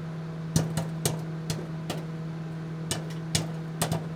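Popcorn popping: about a dozen sharp pops at irregular intervals over a steady hum.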